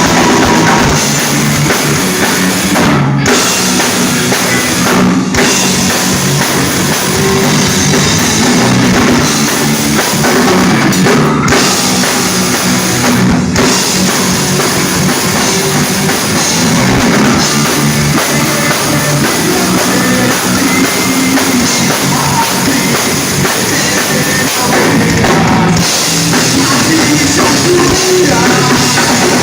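Rock band playing live at full volume, the drum kit prominent, with a singer's voice over the band.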